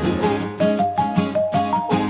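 Background music: strummed plucked-string accompaniment with a short melody line over it, in a steady rhythm of about three strokes a second.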